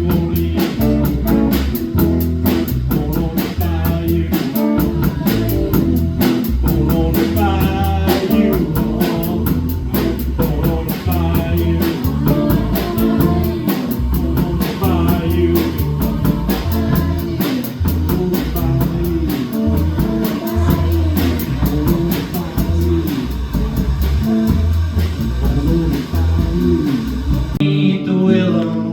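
Live rock band playing an instrumental passage: a lead guitar with bending notes over bass and drum kit, with steady cymbal strikes. About a second before the end the drums stop and a held chord rings on.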